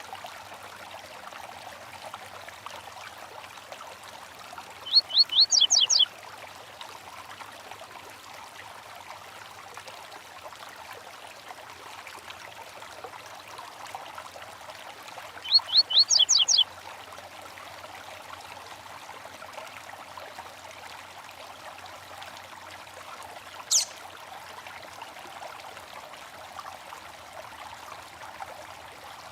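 A small stream running steadily, with a songbird giving a short phrase of quick high notes twice, about ten seconds apart, and a single sharp high call near the end.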